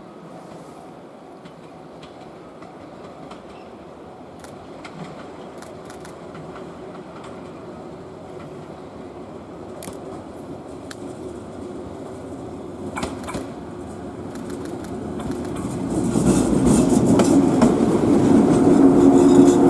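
Train approaching along the track, growing steadily louder and arriving close by in the last few seconds with loud running noise on the rails.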